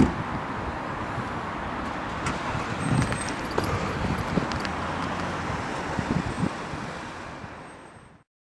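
Car engines and street traffic running steadily, with a couple of low rumbles swelling a few seconds apart, then fading out to silence near the end.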